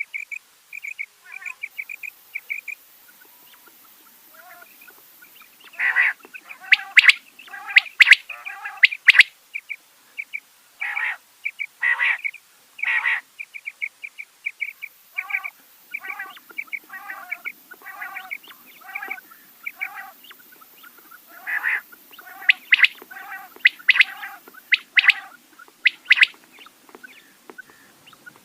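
Rain quail calling repeatedly: a quick run of short high notes at the start, then loud, sharp calls in clusters, with rhythmic series of notes between them.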